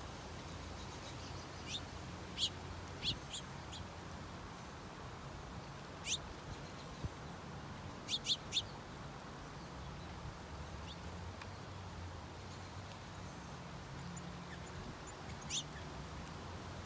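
Small songbirds at a bird feeder giving short, sharp chirps now and then, including a quick run of three about halfway through, over a steady low background hum.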